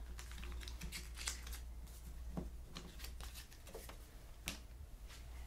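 Trading cards being flipped and slid through by hand, a run of irregular quick clicks and short swishes of card stock.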